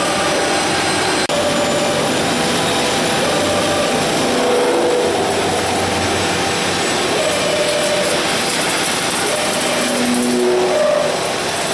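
Servo-driven CNC beam drilling machine running: a steady wash of machine noise with short whining tones that change pitch from moment to moment as the axes move.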